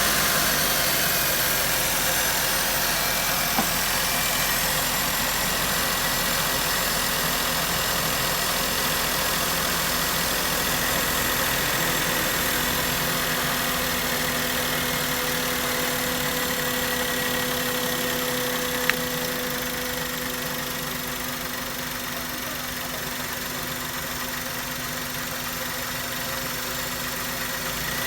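Maruti Suzuki K-series car engine idling steadily just after starting, its level easing down slightly about twenty seconds in.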